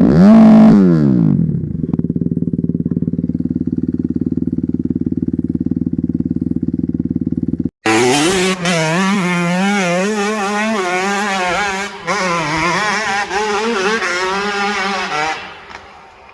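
Dirt bike engine: a loud rev that falls away, then a steady idle. After an abrupt cut, a dirt bike runs under way with its revs rising and falling again and again, fading out near the end.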